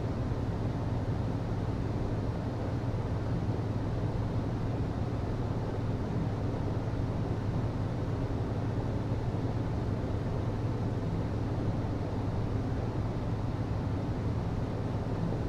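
HVAC system running: a steady low hum with a rush of air over it.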